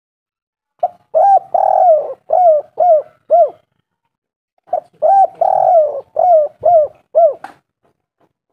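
Spotted dove cooing in two song phrases, each a short note followed by a run of arched coos, the longer coos near the start and three short ones to close. The second phrase begins about five seconds in.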